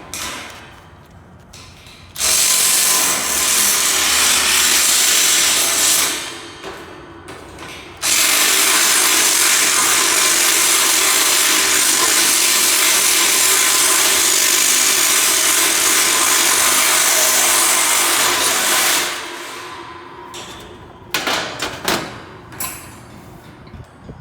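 Hand-held power tool motor, most likely a drill, running in two long bursts of about four and eleven seconds, each starting sharply and winding down; a few short knocks follow near the end.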